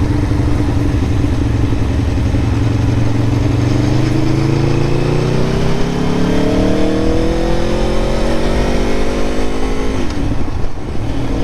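Aprilia Tuono motorcycle engine under way: steady for a few seconds, then accelerating with its pitch rising, and about ten seconds in a clutch upshift briefly cuts the engine note and drops the revs.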